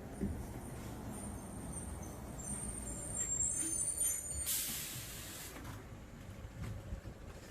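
Bus pulling up: a thin, high brake squeal over the low engine rumble, then a loud burst of air-brake hiss about four and a half seconds in, lasting about a second.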